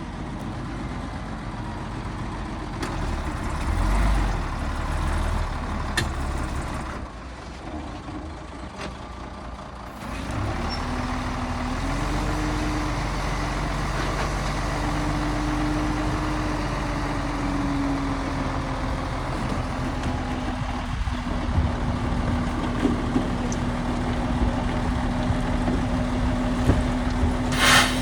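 Heavy diesel construction machinery running with a low, steady rumble. From about ten seconds in, a whine steps up and down in pitch before settling, and a short burst of hiss comes near the end.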